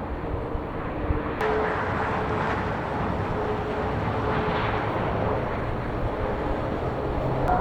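Jet airliner engines running: a steady rushing noise with a faint held whine. A brighter hiss comes in suddenly about one and a half seconds in.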